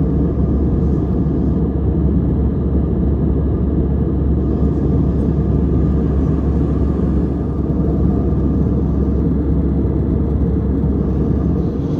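Steady low rumble of an Airbus A320-200 in flight, heard from inside the passenger cabin: engine and airflow noise, even and unchanging.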